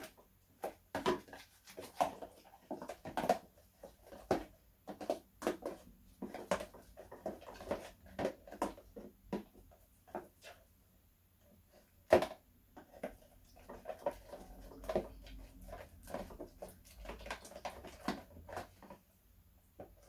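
Slime mixture being stirred and worked in a container: a run of irregular soft clicks and knocks, with one sharper knock about twelve seconds in.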